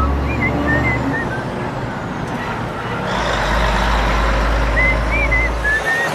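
A low steady motor or engine hum that stops about a second in and starts again about three seconds in, with short high chirps scattered over it.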